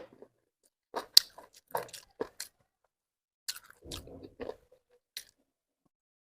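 A person chewing crunchy food close to the microphone. A run of sharp, crisp crunches comes in the first couple of seconds, a softer wet chewing stretch follows around four seconds in, and one more crunch comes near the end.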